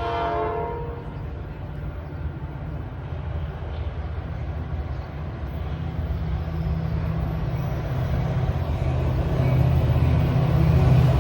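A train horn trails off with a drop in pitch in the first second. The steady low rumble of a train follows, growing louder toward the end.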